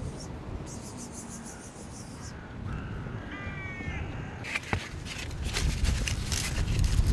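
A short animal cry about three seconds in, over a steady wash of rain and wind noise, followed by louder rustling and scattered taps.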